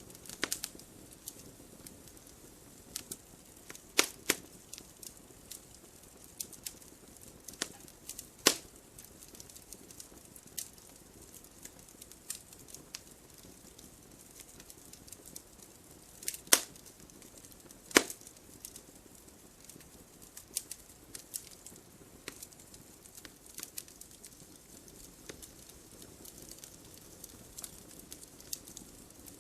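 Wood fire burning and crackling: scattered sharp pops and snaps over a faint low hiss, with a few louder pops now and then.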